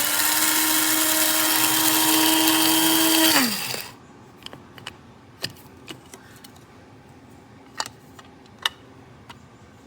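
Amazon Basics electric blade coffee grinder's motor running with a steady high whine, stopping about three and a half seconds in and spinning down. A few light clicks and taps follow.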